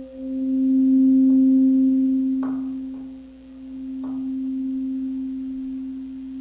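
Toning bowl (singing bowl) ringing: one steady pure tone with a faint overtone above it, swelling and fading in slow waves, sounded to resonate at the energy of the heart chakra.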